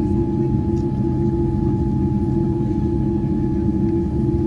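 Steady low rumble inside the cabin of a Boeing 787-9 on the ground after landing, with a steady mid-pitched hum running through it.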